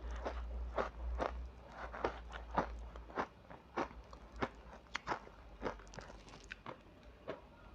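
Ice being bitten and chewed close to the microphone: a run of crisp crunches, about two a second, growing fainter over the last few seconds.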